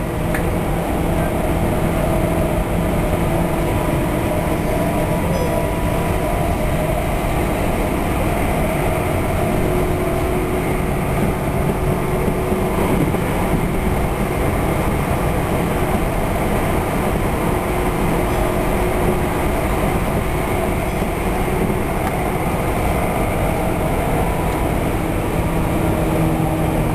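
Tokyu Oimachi Line electric commuter train running at speed, heard from inside the car: a steady rumble of wheels on rails with a low hum under it.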